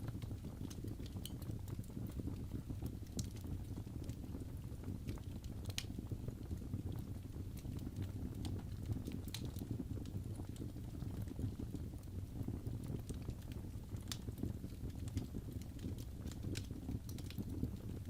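Wood fire burning in a fireplace: a steady low rush, with sharp crackles and pops scattered at irregular moments.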